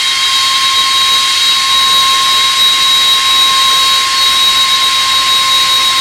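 Jet aircraft engines running at high power: a loud, steady rushing noise with a high steady whine.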